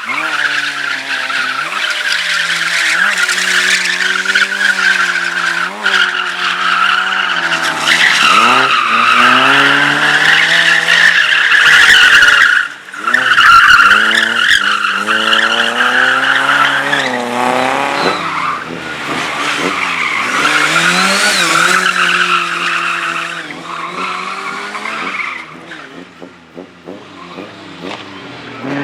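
Slalom race car driven hard, its engine revving up and falling off again and again through the gears, while its tyres squeal through the turns. The sound drops away in the last few seconds.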